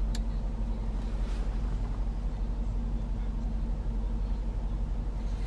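Steady low drone of a 5.0-litre supercharged V8 idling, heard from inside the cabin, with one light click just after the start.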